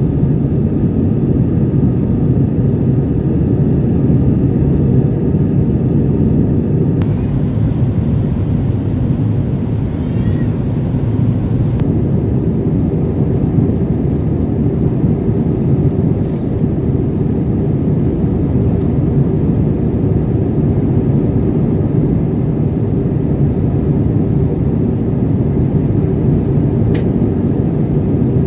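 Steady, deep roar of an Airbus A320 in flight, heard from inside the cabin: engine and airflow noise. A faint higher hum drops away about seven seconds in.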